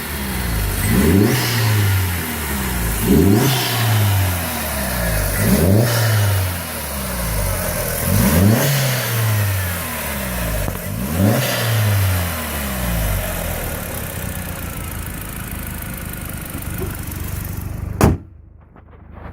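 VW 1.8T AWP turbocharged inline-four engine being test-run: the revs are blipped up and let fall back about six times, then it settles into a steady idle. Near the end a sharp click is heard and the engine sound cuts out.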